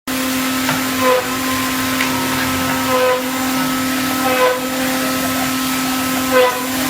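Woodmaster WM-6CNC six-head CNC mortising machine running, its spindle motors whining steadily, with a brief change in pitch and a short louder moment four times, about every one and a half to two seconds.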